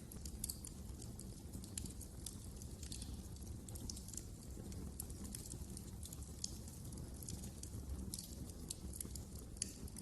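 Wood fire crackling: irregular sharp snaps and pops over a low, steady rumble of burning.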